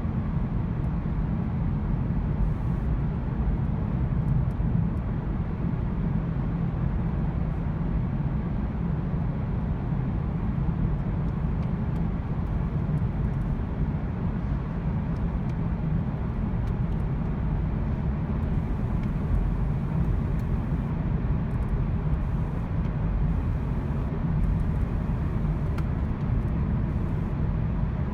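Volkswagen with a misfiring engine being driven at a steady pace: a continuous low rumble of engine and road noise.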